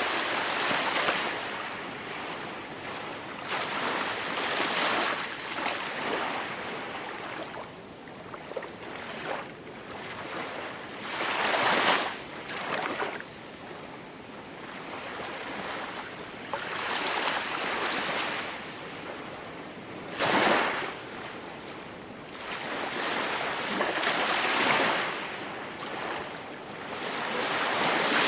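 Sea waves breaking and washing up on a beach, swelling and ebbing every few seconds, with a couple of sharper crashes partway through.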